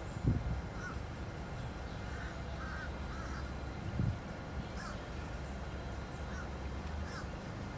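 Birds calling outdoors: a series of short calls, about one every second, with a few thin high whistles. A steady low rumble runs underneath.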